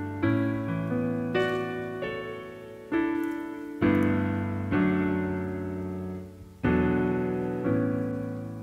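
Background piano music: slow chords struck about once a second or so, each dying away.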